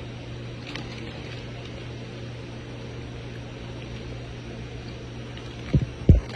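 A steady low mechanical hum with room noise, then two dull knocks close together near the end.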